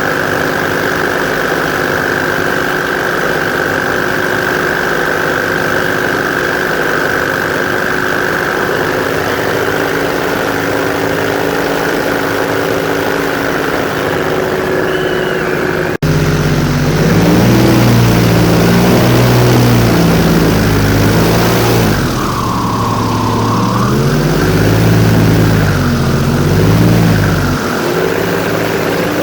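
Airboat engine and propeller running at a steady speed, then about halfway through suddenly louder, with the engine pitch rising and falling several times as the throttle is worked.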